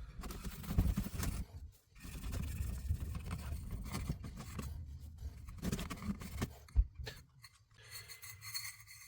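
Irregular scraping and rubbing as a sooty diesel heater part is handled and checked for cleaning, with a sharp knock about seven seconds in and fainter small handling sounds after it.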